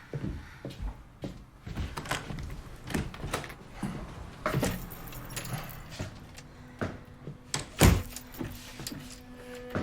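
A run of small clicks, knocks and rustles of people moving and handling things, with one heavy thump about eight seconds in. A low, held musical note comes in near the end.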